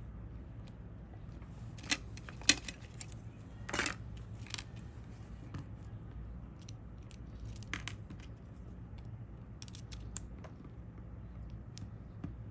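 Scattered small clicks and taps of tools and tiny parts being handled during repair work inside a smartphone, loudest in a short cluster a couple of seconds in, over a steady low electrical hum.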